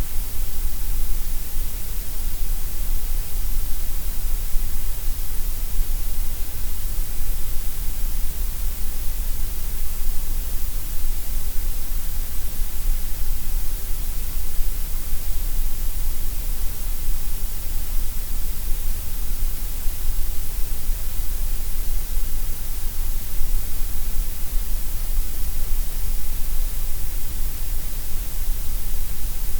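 Gray noise: a steady, unbroken synthetic hiss, heaviest in the deep bass and the high treble and thinner in the middle, with no change in level.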